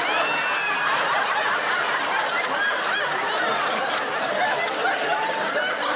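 A sitcom studio audience laughing hard without a break, many voices overlapping.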